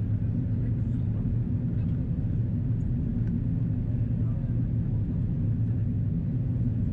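Steady low cabin rumble of an Airbus A330-343 in descent: engine and airflow noise heard from a window seat, constant throughout.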